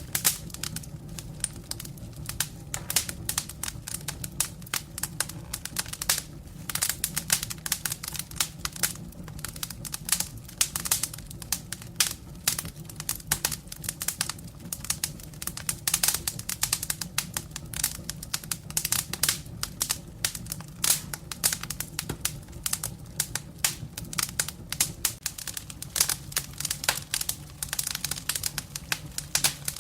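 Firewood burning in a fireplace, crackling with many irregular sharp pops over a steady low hum.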